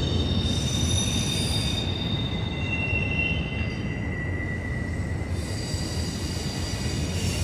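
Freight train of autorack cars rolling past, its wheels squealing on the rail in several high steady tones that come and go over a continuous low rumble.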